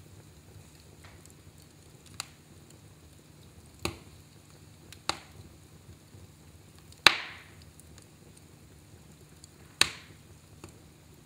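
Fireplace fire crackling: about five sharp, separate pops a second or two apart over a faint steady background, the loudest about seven seconds in.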